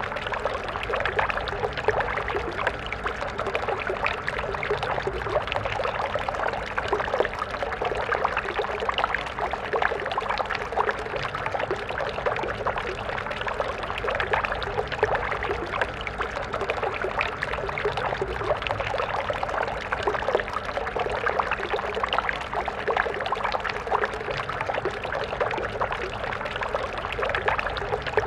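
Stream water flowing and splashing over rocks, a steady babbling rush with constant small splashes.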